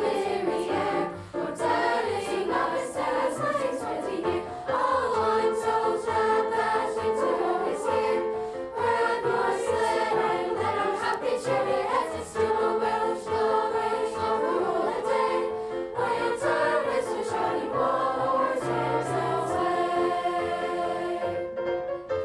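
A school choir singing a Christmas song in harmony, with long held chords, thinning out to a final chord near the end.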